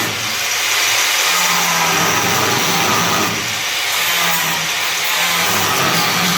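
Power tool cutting through spot welds on a steel car body panel, running steadily with a hissing, grinding sound that dips briefly a few times as the tool is eased off and reapplied.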